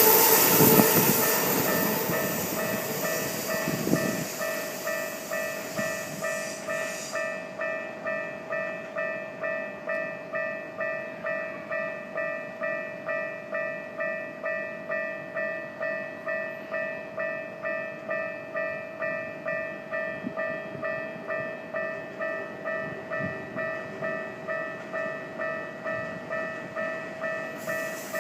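A Keikyu 800 series train runs over a level crossing and fades away over the first several seconds. Throughout, the crossing's electronic warning bell keeps ringing at about two dings a second.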